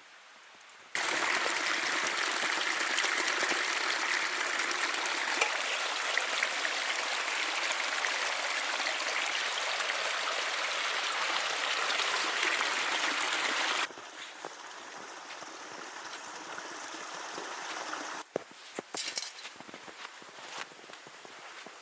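Steady rushing of running water, like a stream, that starts suddenly about a second in and cuts off suddenly partway through. A quieter stretch follows, with a few short clicks near the end.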